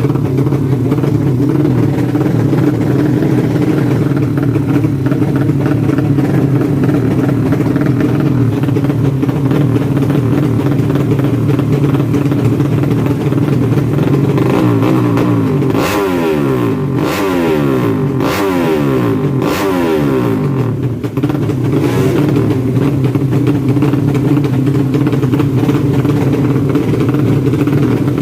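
Four-stroke drag-racing underbone motorcycle engine running loudly at a steady speed. About halfway through it is revved up and down repeatedly for several seconds, then settles back to a steady run.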